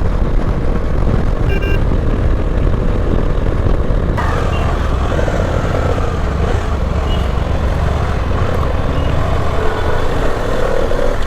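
Bajaj Dominar 400 motorcycle riding at road speed: a steady rumble of engine and wind rush on the microphone. The engine's sound has suddenly turned cracked, for a reason the rider does not know. A short beep comes about a second and a half in.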